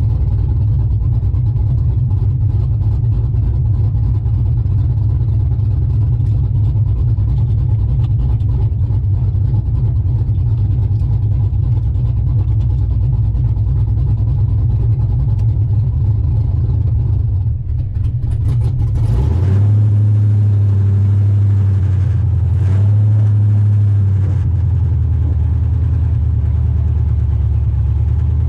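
LS-swapped Chevy truck's V8 idling steadily through its new exhaust as it warms up from a cold start. After about 19 seconds the note changes, with two brief rises in engine speed before it settles back to a steady idle.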